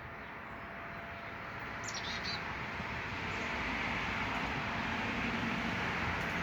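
Steady rushing outdoor background, likely passing traffic, that grows louder through the second half, with one brief high bird chirp about two seconds in.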